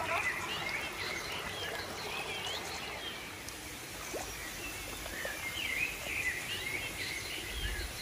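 Small birds chirping and calling repeatedly over a steady outdoor hiss, with a brief low rumble near the end.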